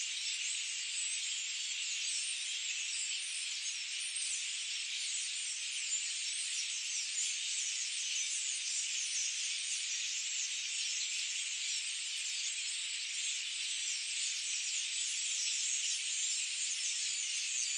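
Dense chorus of many small birds chirping and twittering at once, high-pitched and unbroken, blending into a continuous shrill wash.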